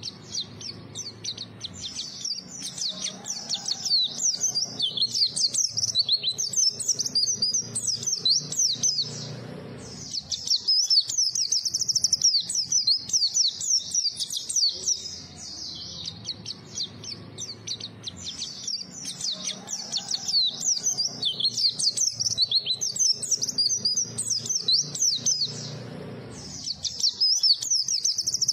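White-eye (pleci) singing continuously in long runs of rapid, high twittering chirps. The song breaks off briefly about a third of the way in, again around the middle, and once more near the end.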